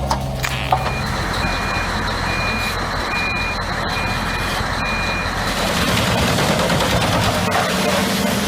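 Backup alarm of a heavy machine beeping six times at an even pace over the steady noise of its running engine; the beeping stops about five seconds in and the machine noise then swells a little.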